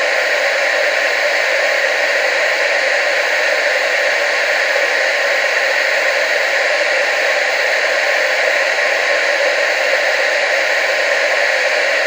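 Television static: a steady, even hiss with no pauses or changes, strongest in the mid and upper range and with little bass.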